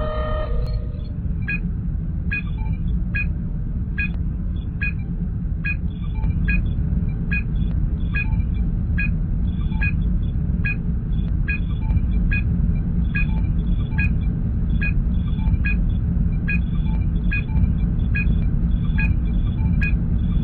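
Sci-fi starship ambience sound effect: a steady low engine hum under a short electronic scanner blip that repeats about once a second.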